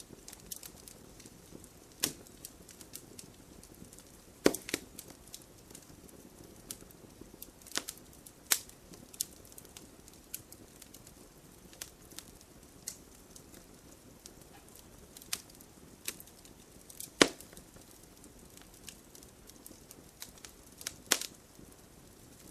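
Fireplace fire crackling: a soft steady hiss under irregular small snaps, with a handful of louder sharp pops scattered through.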